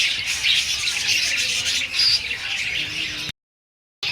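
A flock of small colourful birds chirping and chattering steadily and densely. The sound cuts out completely for under a second, about three and a quarter seconds in, then resumes.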